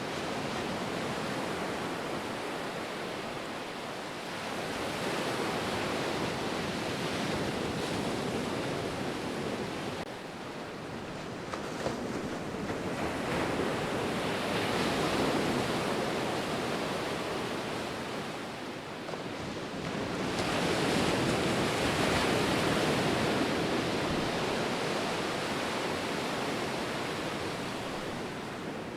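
Ocean surf with waves breaking and washing in. The rushing noise swells and falls back in three slow surges, about seven seconds apart.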